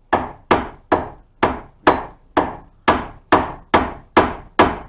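Hammer blows on the steel wheel hub assembly of a Dodge Caravan, eleven evenly spaced strikes about two a second, each with a short metallic ring, knocking at a seized hub to free it.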